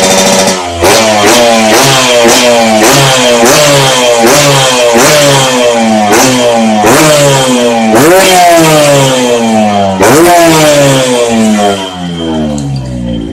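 Yamaha RX-King's two-stroke single-cylinder engine breathing through an underbelly aftermarket exhaust, revved in quick repeated throttle blips, about two a second, each rev falling away before the next. Near the end it settles back toward idle.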